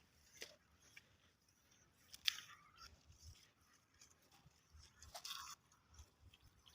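Near silence broken by a few faint, scattered crunches and rustles: a sharp one about two seconds in and a longer rustle about five seconds in.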